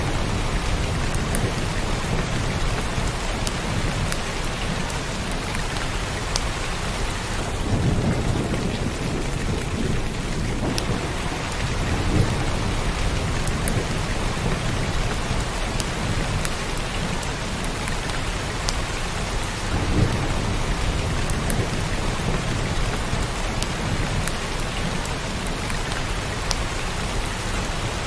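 Heavy rain pouring steadily, with low rumbles of thunder that swell a few times beneath it.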